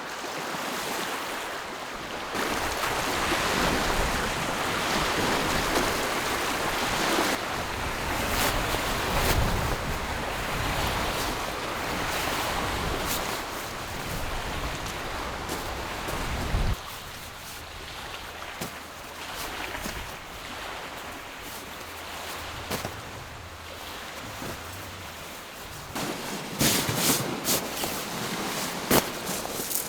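Small waves washing against a lake shore, a steady rushing that swells through the first half and drops off abruptly past the middle. A few sharp knocks come near the end.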